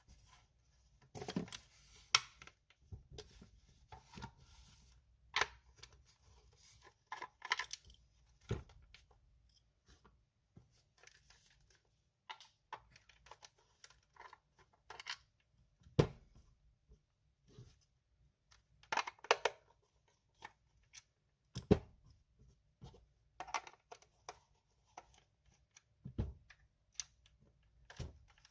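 Plastic parts of a cordless stick vacuum being handled and taken apart: scattered clicks, knocks and scraping at irregular intervals, with a few sharper knocks.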